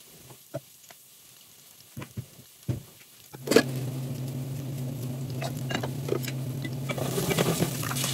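A few light knocks of kitchen utensils, then a loud clack about three and a half seconds in, after which a steady low hum and a crackling like food frying in a pan start and carry on.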